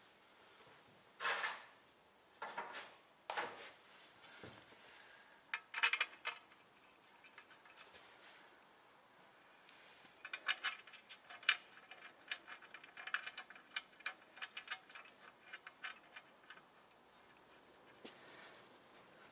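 Ratchet wrench clicking in rapid runs while running in the clutch pressure-plate bolts, after a few separate metallic clinks and knocks of tools and bolts.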